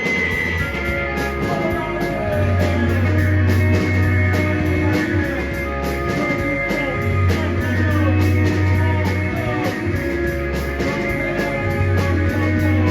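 Rock band playing live in an instrumental passage: electric guitars with held and sliding notes over sustained bass, and drums and cymbals striking steadily.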